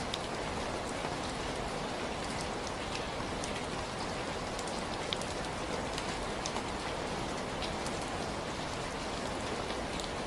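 Steady rainfall, a dense even hiss with scattered sharper drop ticks.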